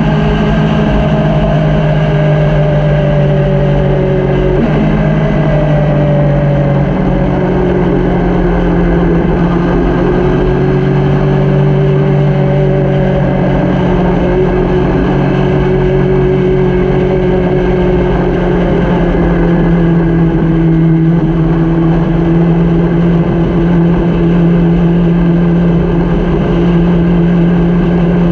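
Motorcycle engine running steadily at cruising speed, its pitch drifting only slightly, over a constant rushing road noise.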